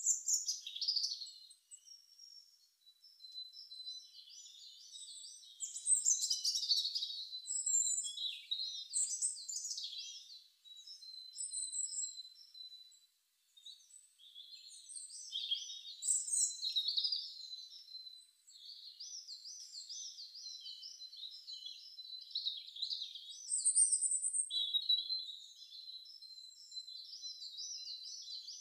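Songbirds singing: high chirps, trills and fast wavering notes in phrases with short pauses between them, and nothing low-pitched underneath.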